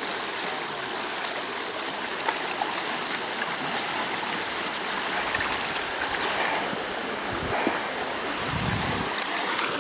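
River with a strong current rushing steadily while it is waded across. A couple of low bumps come through near the end.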